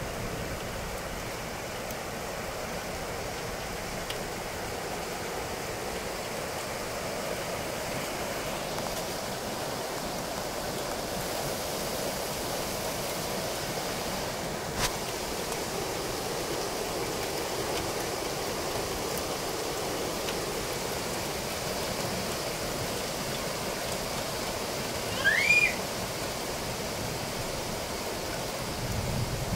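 Heavy rain falling steadily on trees and grass, an even hiss with no letup. About midway there is a single sharp click, and near the end a brief high chirp stands out above the rain.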